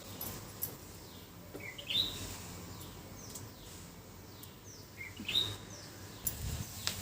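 Wild birds calling: a louder short two-note call twice, about two seconds in and again about five seconds in, with fainter downward-sliding chirps in between. A few light clicks and knocks come near the end.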